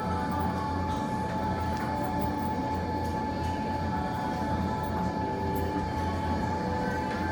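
Steady low machine hum with a constant high whine, with faint crackles from the fire in the fireplace.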